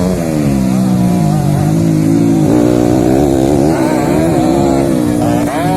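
Dirt-bike engines revving, their pitch repeatedly climbing and dropping as the racing motorcycles accelerate and back off.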